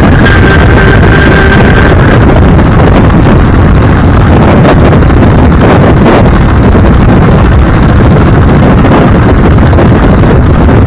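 Steady, very loud wind rushing over the microphone with the rumble of a vehicle driving along the road. A thin steady tone sounds over it for about the first two seconds.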